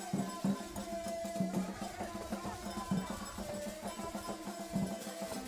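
Percussion-led music: drums beating a steady, quick rhythm, with a held melodic line over them.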